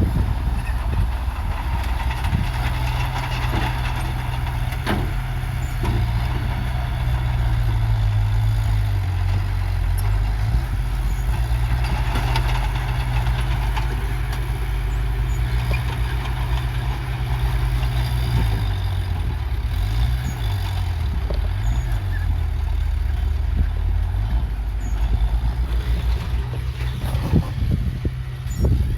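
Heavy earthmoving machine's diesel engine running under load, its pitch rising and falling as the throttle changes, with a few knocks and clanks.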